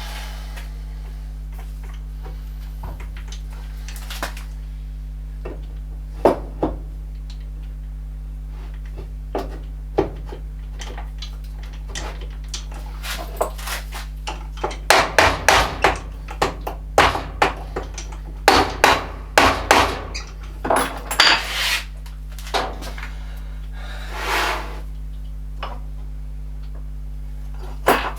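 Metal tools and parts being handled, knocking and clattering: scattered single knocks, then a busy run of metallic clinks and clanks in the middle. A steady low hum runs underneath.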